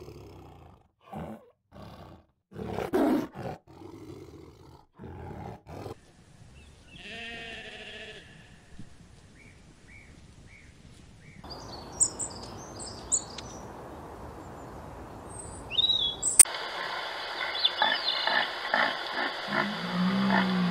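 Tiger growling in a run of short snarls, the loudest about three seconds in. Then a sheep's bleat and birdsong over an open-field background. Near the end a red deer stag begins a deep roar.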